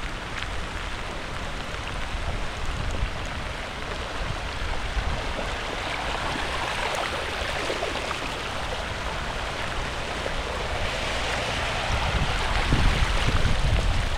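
Steady rush of rain and running water after a tropical cyclone. It swells about six seconds in and again near the end, with low rumbling toward the end.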